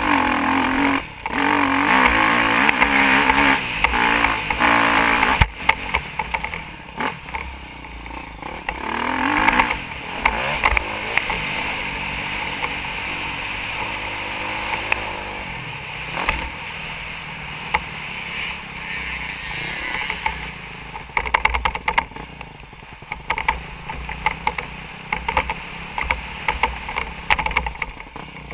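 Motocross dirt bike engine revving hard and easing off again and again, with rough wind noise and clatter on the mounted camera. After about ten seconds the engine settles to a lower, steadier run.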